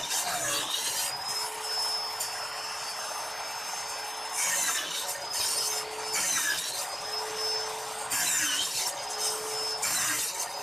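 A hand tool working wood in slow, even strokes, roughly one every one and a half to two seconds, with a rasping, sawing sound.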